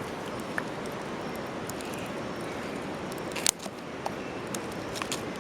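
Campfire crackling: a steady hiss with a few sharp pops, the loudest about three and a half seconds in.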